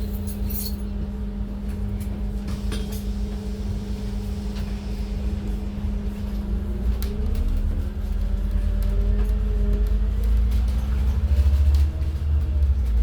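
Scania N280UD CNG double-decker bus's five-cylinder gas engine and Voith automatic drivetrain heard from the top deck: a steady hum and low rumble, then from about halfway the engine note rises as the bus pulls away and accelerates, the rumble growing louder.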